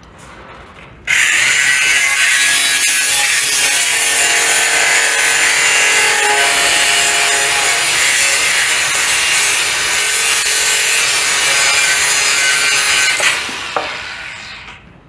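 Power tool, most likely an angle grinder, cutting through an old bolt with a steady loud hiss. It starts about a second in, runs for about twelve seconds, then winds down over the last two seconds as it is switched off.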